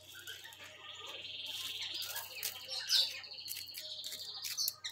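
A bird's high, rapid trill held for about four and a half seconds, with a few short clicks of pebbles as hands dig into a gravel bed.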